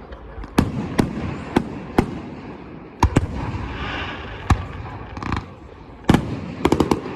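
Fireworks display: aerial shells bursting in a string of sharp bangs, irregularly spaced about half a second to a second apart, with a quick cluster of reports near the end and crackle between them.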